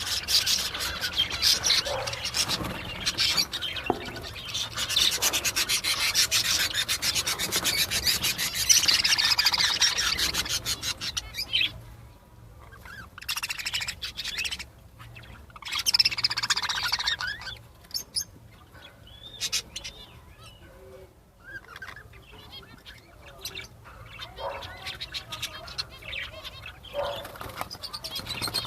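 A group of budgerigars chattering and chirping, thick and continuous for about the first ten seconds, then in shorter bursts with quieter gaps between.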